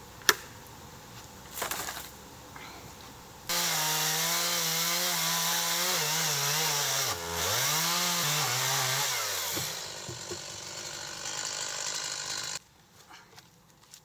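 A sharp click, then a two-stroke chainsaw running at high revs while cutting wood. Its engine note wavers and dips sharply for a moment under load before picking back up, eases off, then stops suddenly.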